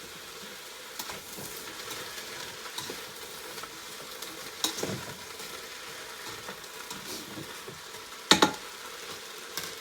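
Sliced onions, zucchini, garlic and ginger sizzling in oil in a slow cooker's pot on its high sauté setting, being stirred, with small scraping clicks and one sharp knock about eight seconds in.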